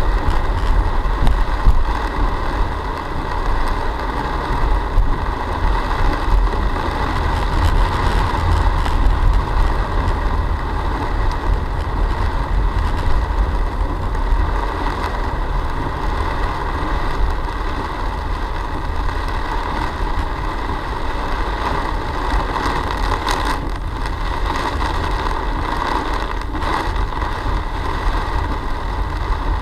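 Car driving, a steady engine and road rumble picked up by a dash cam.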